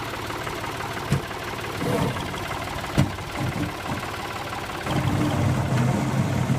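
Tractor engine running steadily while back-dragging snow off a driveway with its loader bucket. A sharp knock comes about three seconds in, and the engine grows louder about five seconds in.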